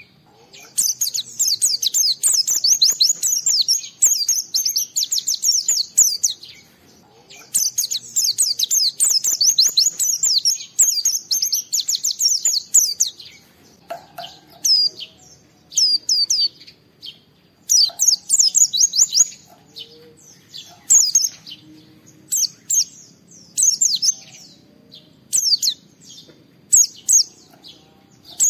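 Pleci (white-eye) singing a vigorous, rival-challenging song. It starts with long runs of fast, high-pitched chattering notes, and from about halfway through breaks into shorter phrases with pauses between them.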